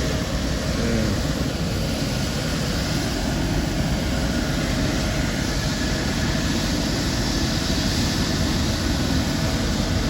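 Medical helicopter's turbine engine running steadily on the ground, a constant rushing drone before takeoff.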